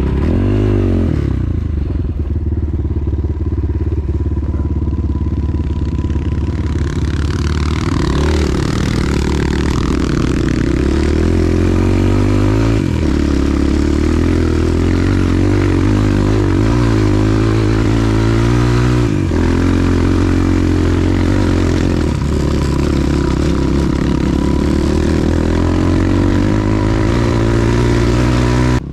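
Motorcycle engine running steadily with its revs rising and falling. About seven seconds in, a loud rushing noise joins it.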